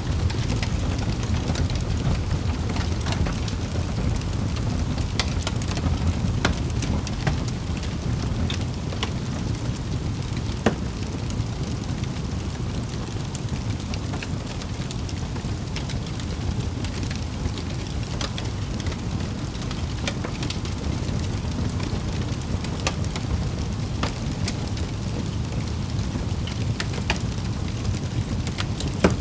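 Wood fire crackling in a fireplace: a steady low rumble of burning, with scattered sharp pops and snaps a few times a second.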